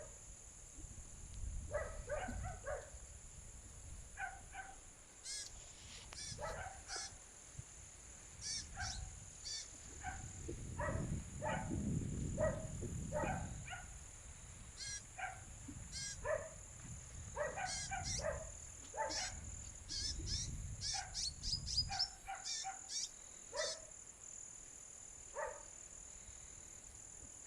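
Songbird calls: many short, sharp chirps in quick runs, repeated over and over. Under them runs a steady high insect drone, and at times a low rumble of wind.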